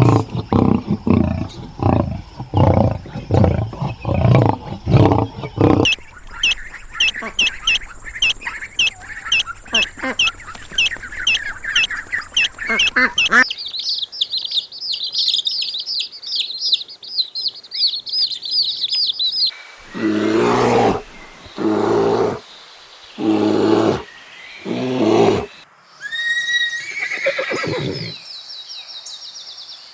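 Several different animal calls one after another: a rhythmic run of low calls, then fast repeated high bird chirps, then five or six loud separate calls.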